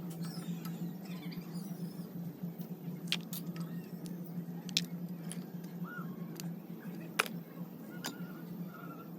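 A steady low machine hum, with scattered sharp clicks and a few short, faint squeaks.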